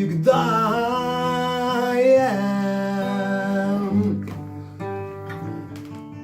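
A voice sings a long held note over acoustic guitar. For the last couple of seconds the guitar plays on alone, with plucked notes.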